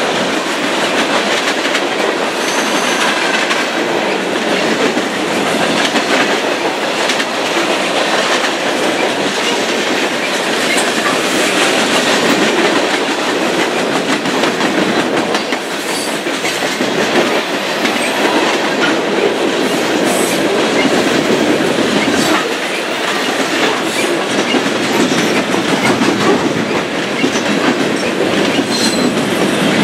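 CSX freight train cars rolling past close by: steel wheels running over the rails in a loud, steady rolling noise, with a few brief high wheel squeals.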